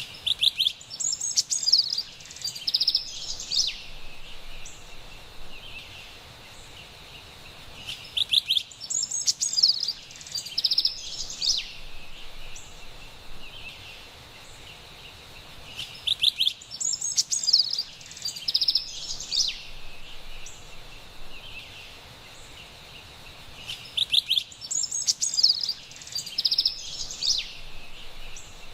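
Carolina wren singing: four bouts of rapid, high chirping phrases, each about three seconds long, coming evenly about eight seconds apart and all of the same shape, over a faint steady background hiss.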